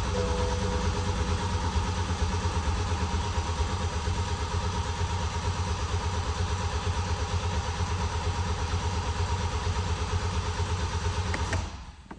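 BMW N47 2.0-litre diesel engine idling steadily, run with its DPF removed on its first start after a snapped timing chain was replaced. It shuts off suddenly near the end.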